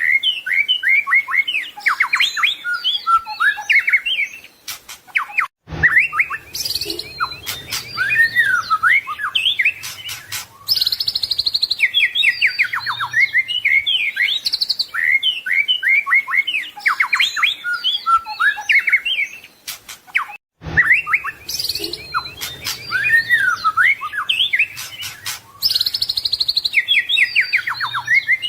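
White-rumped shama (murai batu) singing a fast, varied song of whistled phrases, trills and rapid chattering notes. The song cuts out briefly twice, and the same passage repeats about every fifteen seconds, as in a looped recording.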